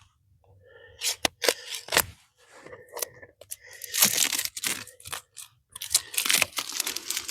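Plastic wrapping being torn and crinkled off a new toolkit's box: irregular crackling rips that start about a second in and come thicker in the second half.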